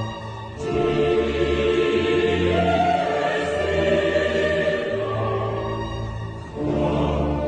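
Choral music with sung voices held over a deep sustained bass, with a break between phrases about half a second in and another near the end.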